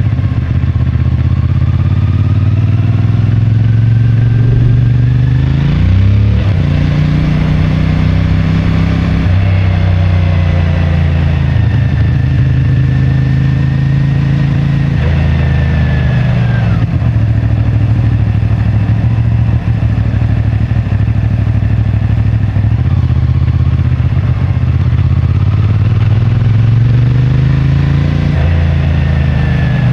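CFMoto 450MT's parallel-twin engine running through its stock exhaust while riding. It pulls up through the revs, drops sharply at a gear change about six seconds in, holds a steady cruise, and falls off in revs about halfway through. It picks up again near the end.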